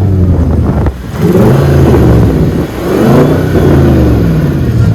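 Car engine revving hard at a car meet, its pitch repeatedly climbing and falling, with a brief drop in level about a second in before it picks up again.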